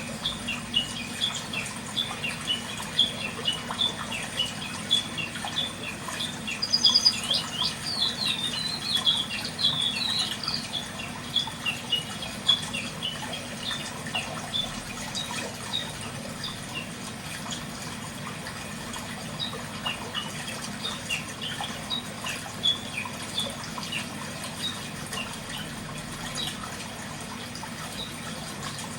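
Many small birds chirping in a dense chorus of short, high calls, busiest in the first half with a brief flurry of higher notes, over a steady low background noise.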